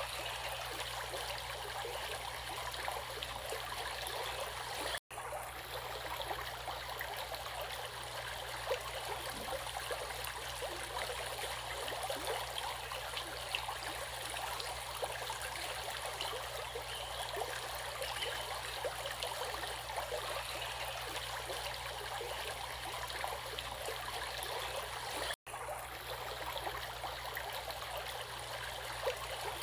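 Water flowing steadily in a stream, a constant rushing with fine splashing detail. The sound cuts out for an instant twice, about five seconds in and again near the end.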